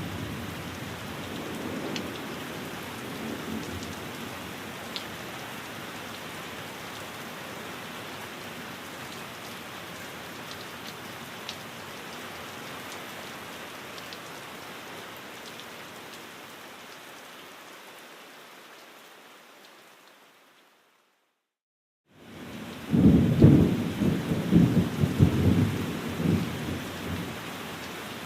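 Steady rain falling on a window, with a low rumble of thunder at the start. About twenty seconds in, the rain fades to a second or so of silence, then comes back with a loud, rolling peal of thunder.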